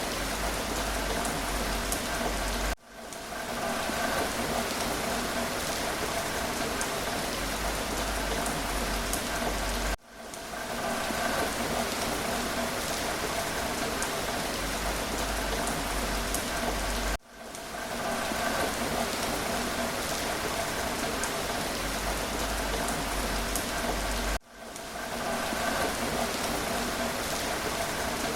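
Steady rain falling. Four times, about every seven seconds, the sound drops out abruptly and swells back in over about a second.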